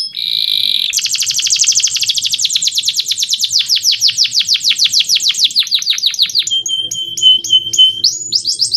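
Male canary singing a fast rolling song: a brief buzzy note, then long trills of quick downward-sweeping notes repeated many times a second, switching to a new phrase with a held note beneath the sweeps about seven seconds in and another fast trill near the end.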